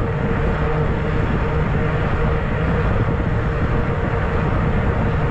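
Steady wind rush over the microphone mixed with the rolling noise of a fat-tire e-bike riding along a trail, with a faint steady hum underneath.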